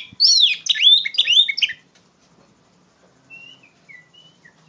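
Oriental magpie-robin (kacer) singing loudly: a quick run of bright, swooping whistled notes for nearly two seconds, then a few soft, short whistles near the end.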